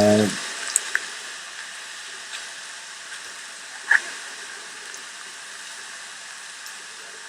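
Steady hiss of hurricane rain, with a few small ticks and a sharper one about four seconds in.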